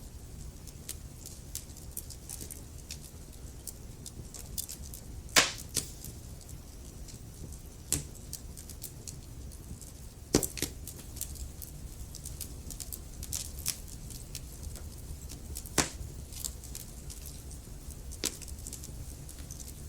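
Burning logs in a fireplace crackling: a stream of small ticks and snaps over a low steady rumble, with a handful of louder sharp pops spread through, the loudest about five seconds in.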